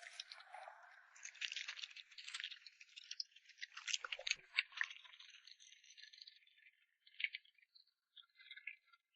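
Dog eating: rapid, irregular crunching and clicking that thins out to a few scattered clicks after about seven seconds.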